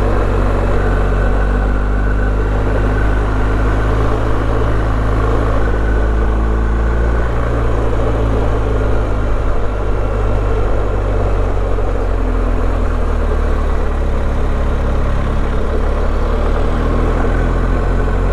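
BMW R1250GS boxer-twin motorcycle engine running at a steady, even speed, with no revving.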